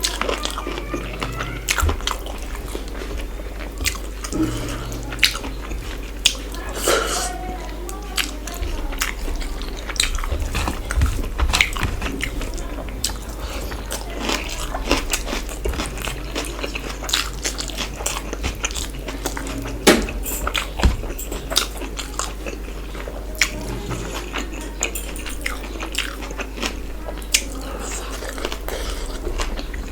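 Close-miked eating of chicken masala and rice: biting and chewing with many short wet smacks and clicks, over a steady low hum.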